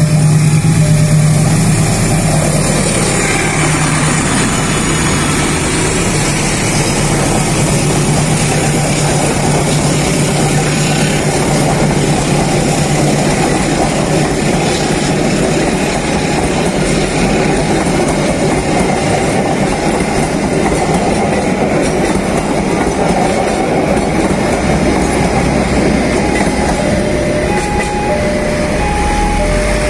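A passenger train passing a level crossing. The diesel locomotive goes by first with a strong steady hum, then the carriages run past with continuous rumbling and rail noise. The crossing's warning signal alternates between two tones at the start and again near the end.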